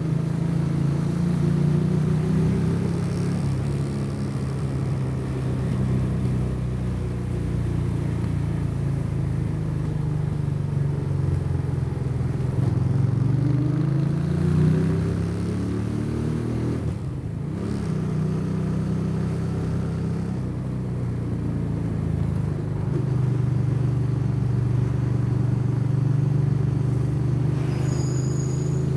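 Motorcycle engine under way on the road, its pitch climbing and falling with the throttle. It climbs steadily around the middle, then dips sharply for a moment about seventeen seconds in, as at a gear change, and pulls on again.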